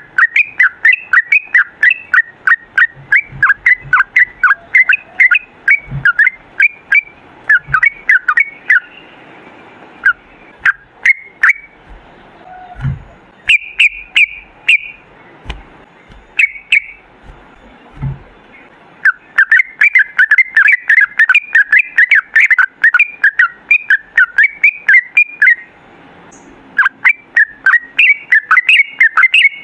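Yellow-vented bulbul singing long, rapid runs of short, sharp chattering notes. The runs thin out to scattered notes for about ten seconds in the middle, then come back fast.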